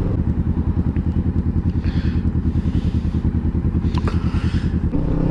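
Kawasaki Vulcan S's parallel-twin engine running at low revs with a fast, even pulsing beat, then picking up revs to a smoother, steadier note near the end.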